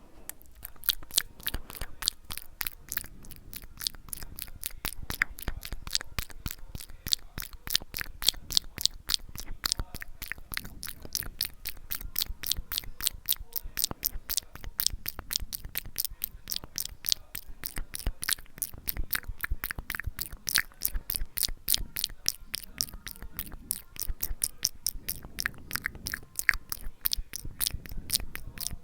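Close-miked ASMR mouth sounds: a fast, steady run of wet tongue and lip clicks, several a second, with no break.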